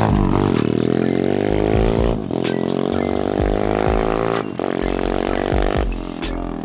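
Single-cylinder four-stroke engine of a 125cc SYX Moto pit bike running hard under way, with short breaks in the engine note about two, four and a half and six seconds in at gear changes.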